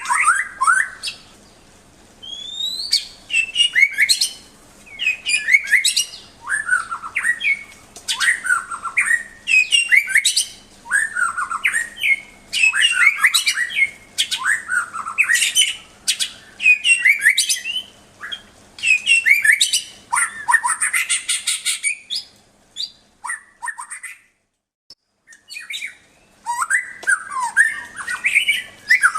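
White-rumped shama (murai batu) singing: short, rapid phrases of sweeping notes, one after another about every second, with a pause of about two seconds near the end.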